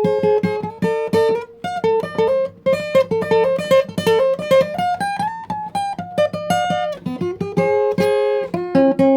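Acoustic guitar playing an instrumental passage, single notes plucked quickly one after another in a running melody, with a lower note held underneath.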